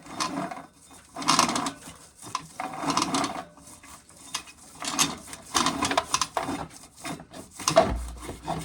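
Irregular scraping and rubbing strokes, roughly one a second, as spilled corn is cleared up around a corn sheller, with a brief low thump near the end.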